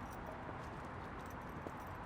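Quiet, steady background noise with a few faint ticks and a small click near the end.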